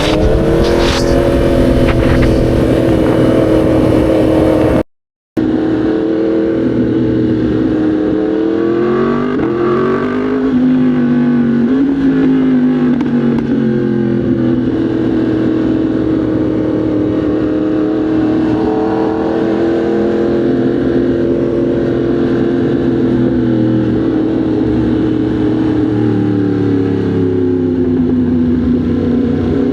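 Motorcycle engine running at steady, fairly low revs, its pitch rising and falling gently a few times as it is ridden. The sound cuts out completely for about half a second roughly five seconds in.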